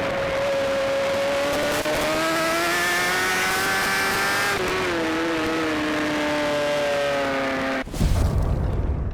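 Racing sportbike engine running hard at high revs, its note climbing slowly and then dropping sharply about halfway through before easing down. Near the end it cuts off abruptly into a deep rumble.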